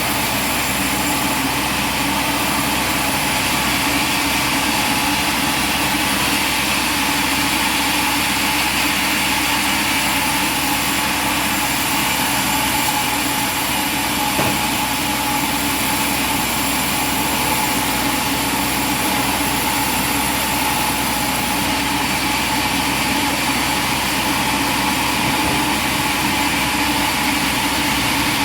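Machinery running steadily, a constant engine-like drone with a steady high whine and no change in pace.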